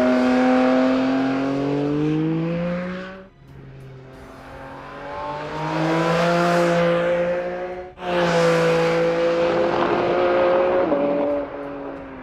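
Porsche 718 Cayman GT4 RS's 4.0-litre flat-six engine at high revs on a race track, in three shots cut together: first a steady pull with the pitch slowly rising, then the car building up to a close pass and cutting off abruptly, then another loud stretch that fades away near the end.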